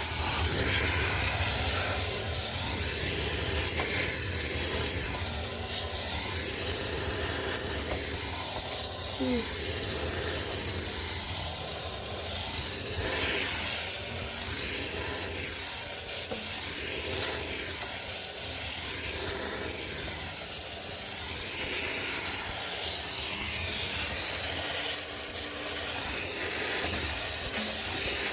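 High-pressure steam cleaner jet hissing steadily while sterilizing the inside of a sneaker washing machine, with small dips in level as the nozzle moves.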